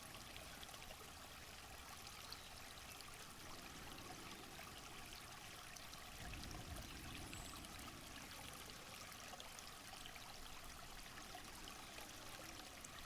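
Faint, steady rush of a flowing stream, with a slight swell about halfway through.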